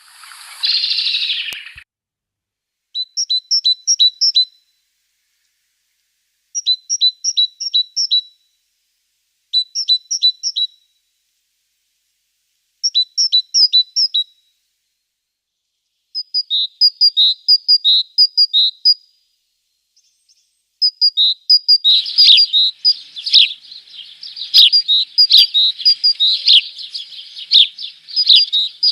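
Small birds chirping: a brief harsh burst at the start, then short phrases of quick, high chirps repeated every few seconds, becoming a dense, near-continuous chatter of overlapping chirps for the last third.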